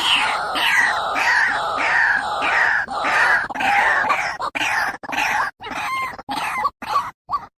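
White-breasted waterhen (ruak-ruak) calling: a fast, loud run of harsh repeated croaking notes that slows near the end into separate single notes, about two a second.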